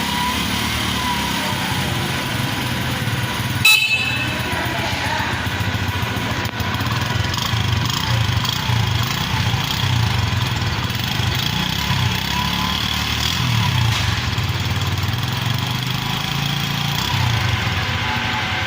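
Honda CD 70's small single-cylinder four-stroke engine running steadily, with a short sharp sound about four seconds in.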